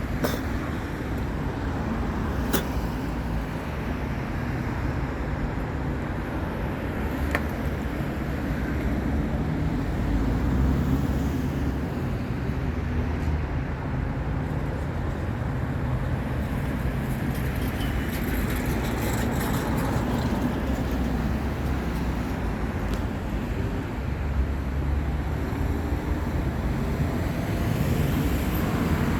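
Steady roadside traffic noise: passing vehicles with a low engine and tyre rumble that swells and fades, and a couple of brief sharp clicks.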